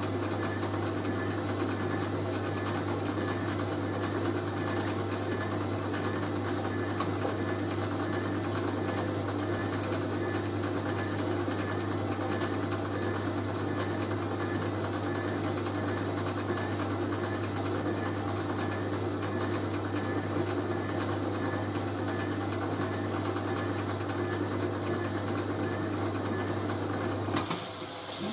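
Hoover A3060 Electronic 1100 washing machine running with a steady low hum, which cuts off abruptly near the end as the machine finishes its wash stage and moves on to the first rinse.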